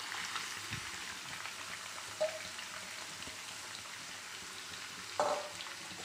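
Masala-coated prawns frying in oil on high flame in a nonstick kadai: a steady sizzling hiss with faint crackles, and two brief knocks, about two seconds in and about five seconds in.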